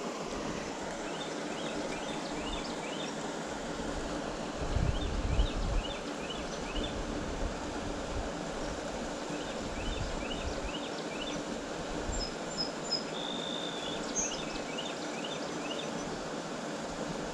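Outdoor creek-side ambience: a steady rush of noise with repeated high chirps in quick series of four to six, every couple of seconds. There is a brief low rumble about five seconds in.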